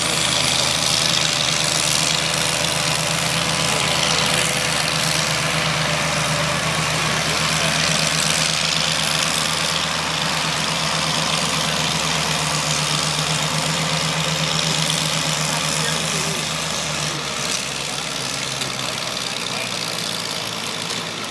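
Tractor engine running steadily with a low, even drone; its low note drops away about seventeen seconds in.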